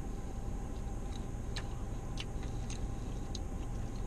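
Chewing a crispy fried cheese-stuffed tater tot: scattered faint crunching clicks over a steady low hum inside a parked car.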